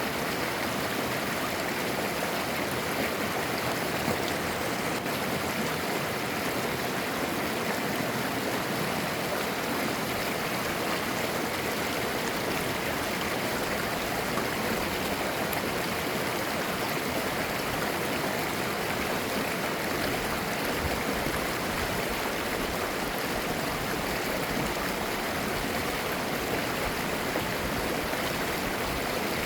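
A mountain stream flowing steadily over rocks, its clear water babbling and gurgling.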